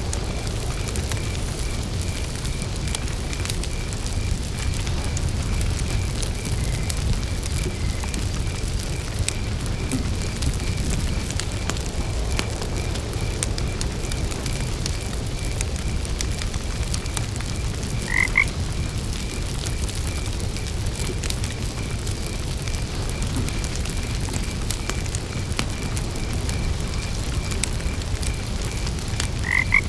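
Crackling wood fire over a steady low rumble, with crickets chirping in a steady pulsing trill. A frog croaks twice, briefly, about eighteen seconds in and again at the very end.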